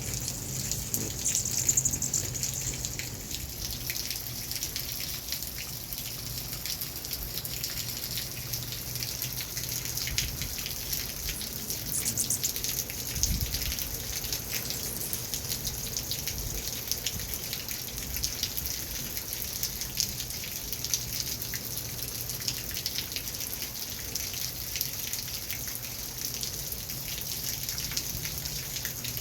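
Rain falling steadily, with the close patter and drips of individual drops.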